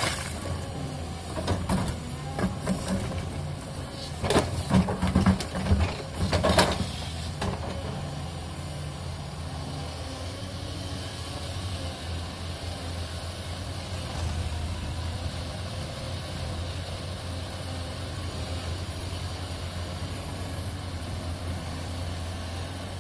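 Caterpillar 320D excavator's diesel engine running under load, with a run of loud knocks and scrapes in the first seven seconds or so as the bucket works rock. After that the engine runs on steadily.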